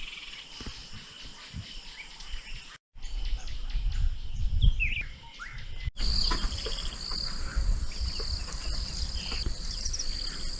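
African bush ambience: scattered bird chirps and calls with an insect drone. The sound drops out for a moment about three seconds in. After a break about six seconds in, a steady high insect buzz, like cicadas, sounds throughout.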